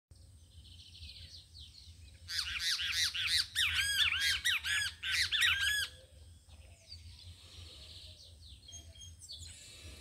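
A bird calling from a treetop: a rapid run of loud, harsh, arching notes, starting about two seconds in and lasting about three and a half seconds, with fainter bird calls before and after.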